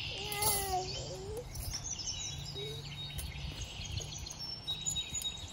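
Small birds chirping, short high calls scattered through, over a low steady rumble. A brief wavering pitched call sounds in the first second and is the loudest moment.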